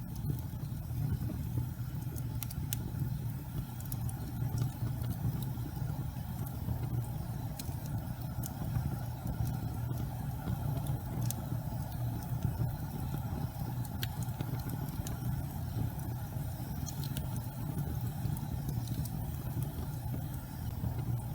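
Fireplace fire burning with a steady low rumble of flame, broken by occasional sharp crackles.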